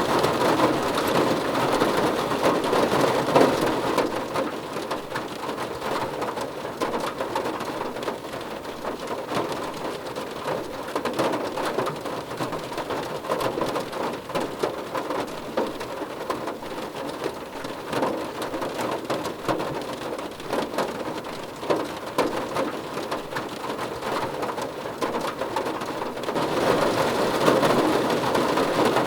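Rain falling on a car roof: a dense, steady patter of drops on the metal. It eases a few seconds in and comes back heavier near the end.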